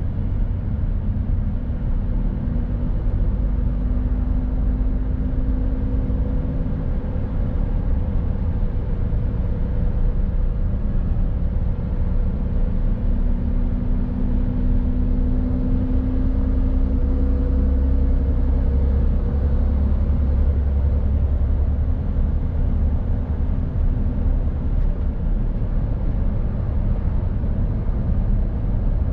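Mercedes-Benz Actros truck on the move: a steady low engine and road rumble, with faint engine tones that swell and fade as the revs change, and a heavier low rumble partway through.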